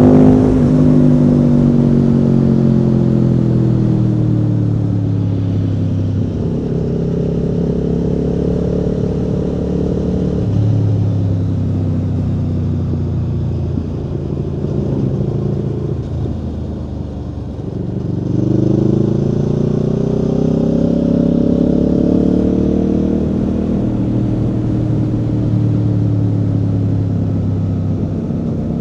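Aprilia Tuono V4's V4 engine under way on the road. Revs fall away from a peak at the start and hold fairly steady, then sag and quieten around the middle. About 18 seconds in the bike accelerates hard with a rising pitch, then eases back.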